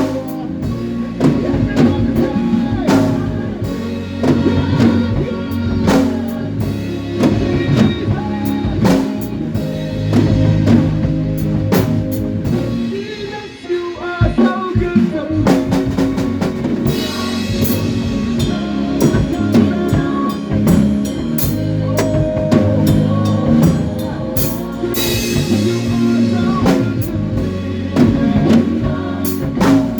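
A live band playing an instrumental stretch of a worship song: drum kit with kick and rimshots over sustained bass notes. The band breaks off briefly just before the middle, and cymbals crash about halfway through and again later.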